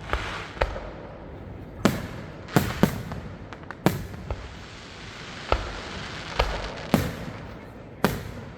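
Aerial fireworks shells bursting: about a dozen sharp bangs at uneven intervals, some in quick pairs, each trailing off in an echo.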